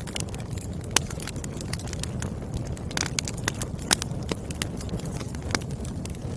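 Burning firewood crackling: sharp irregular pops and snaps over the steady low rumble of the flames, the loudest pops about a second in and near four seconds.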